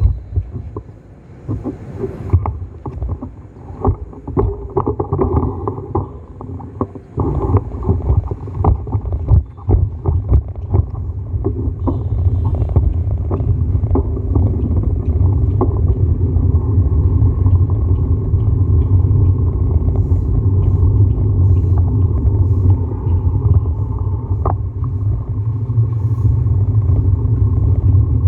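Low rumble of a bicycle ride with wind buffeting the microphone, broken by scattered knocks and rattles in the first half and settling into a steady rumble from about twelve seconds in.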